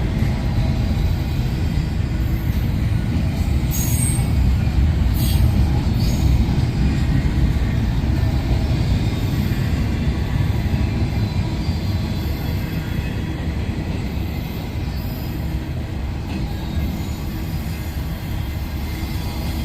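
Train rolling past with a steady low rumble of wheels on rail, and brief high wheel squeals about four and five seconds in.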